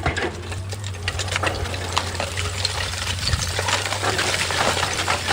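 An engine running with a steady low hum, with scattered crackling and rattling over it.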